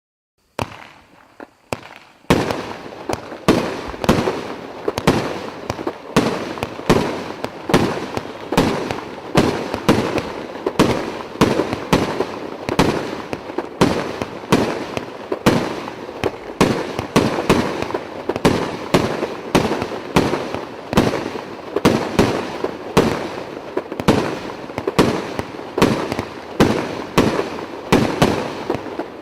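Consumer fireworks battery (cake) firing shot after shot, about two sharp bangs a second in a steady run, each with a short crackling tail. A faint hiss comes first, for about two seconds before the shots begin.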